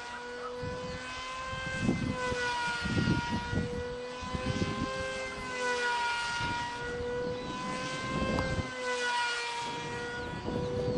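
Multiplex TwinJet electric RC plane in flight: its homemade brushless outrunner motor and propeller make a high whine whose pitch gently rises and falls as it passes. Low rumbling bursts from wind on the microphone come and go.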